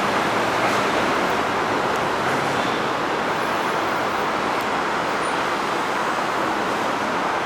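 Steady road traffic noise, an even continuous rush with no distinct knocks or tones.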